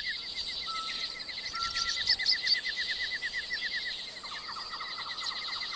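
Birds calling: a fast, even trill of short chirps, about ten a second, over a steady high hiss, with a few louder chirps about two seconds in. A second, lower trill starts about four seconds in.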